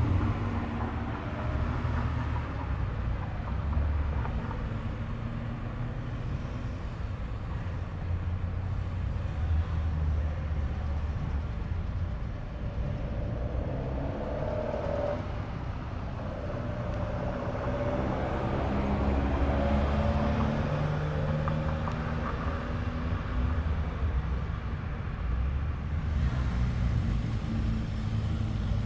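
Car engines running as cars roll by at low speed, their engine notes shifting up and down. About halfway through, one engine note rises and then falls as a car passes.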